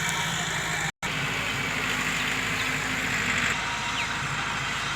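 Tractor diesel engine running steadily. The sound drops out completely for an instant about a second in.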